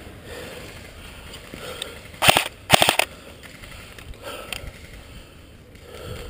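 Airsoft rifle firing two short full-auto bursts about two seconds in, each a rapid string of snapping shots, with a few fainter shots later.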